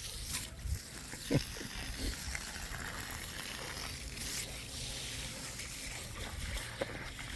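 Water trickling and splashing steadily as a dog plays in it, with a few short splashes, the clearest about a second and a half in.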